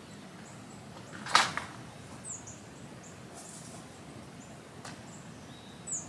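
Small birds giving a few short, high chip notes over a quiet outdoor background, with one sharp, loud click or knock about a second and a half in.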